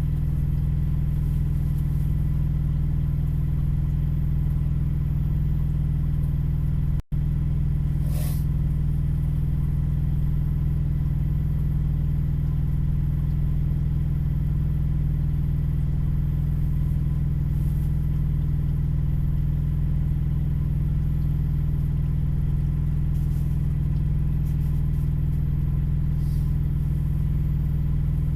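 Engine idling with a steady low hum, heard from inside a parked vehicle's cab. The sound cuts out for an instant about seven seconds in.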